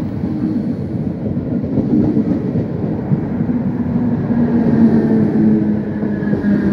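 DART electric multiple-unit commuter train running along a station platform, a steady rumble of wheels on rail with a low hum through it.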